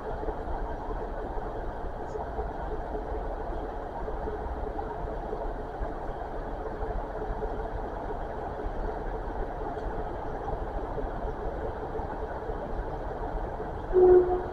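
Train's diesel engine idling steadily, a constant hum and rumble, with a short loud beep near the end.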